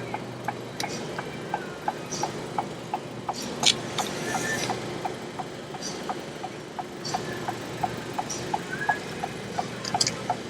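Steady, even ticking, about four ticks a second, over a constant background hiss, with a few short chirps and one louder click about four seconds in.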